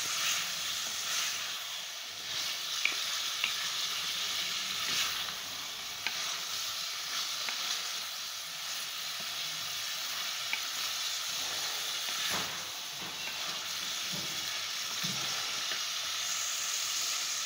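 Chopped potatoes and onions frying in ghee in a metal pot, sizzling steadily as a wooden spoon stirs them, with a few sharp clicks.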